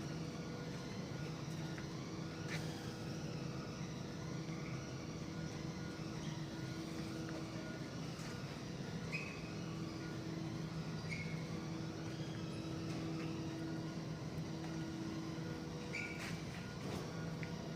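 Plastic injection moulding machine running: a steady hum, with a tone that drops out and comes back every few seconds and scattered light clicks and short chirps.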